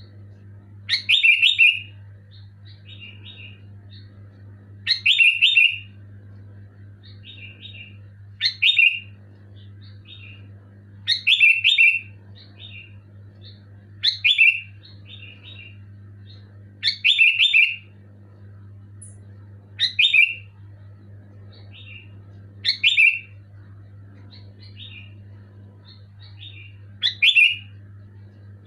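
Sooty-headed bulbul (kutilang) singing loud, short bubbling phrases about every three seconds, with softer short notes between them. A steady low hum runs underneath.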